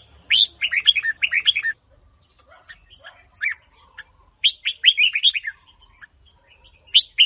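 Red-whiskered bulbul (chào mào, Hue type) singing: quick phrases of bright, sweeping notes in three main bursts, with a few single notes in the gaps.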